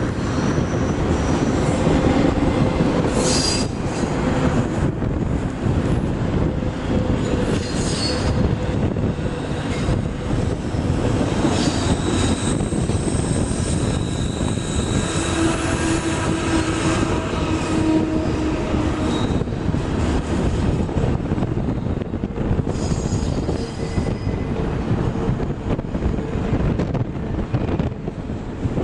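Canadian National freight train rolling past, steel wheels rumbling on the rails with thin squealing tones that come and go, strongest about halfway through.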